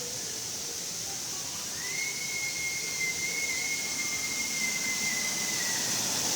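A single steady high-pitched whistle about four seconds long, starting about two seconds in and sagging slightly in pitch as it ends, over a continuous hiss.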